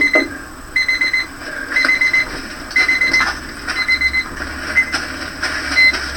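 A high-pitched beep repeating about once a second, each about half a second long, growing fainter and shorter toward the end, with a sharp knock at the start.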